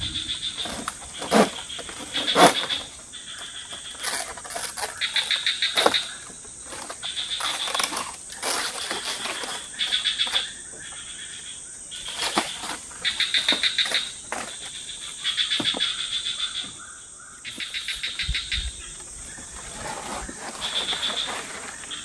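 Forest insects, cricket-like, chirping in rapid pulsed trills about a second long that repeat every couple of seconds, over a steady high insect tone. A few sharp knocks cut in, two of them loud within the first few seconds.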